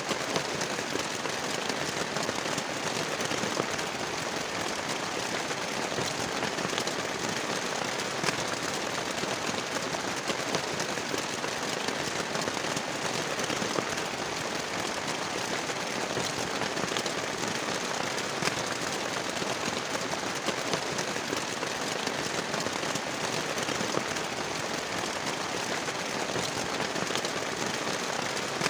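Heavy rain falling steadily, with many sharp, crackling drop hits.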